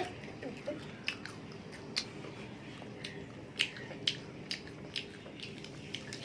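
Chewing crispy masala dosa close to the microphone: irregular crunchy crackles, about two a second.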